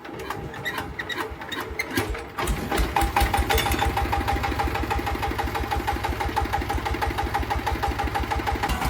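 A small engine starts about two and a half seconds in and settles into a steady idle with an even, rapid knocking beat, after a few scattered clicks and knocks.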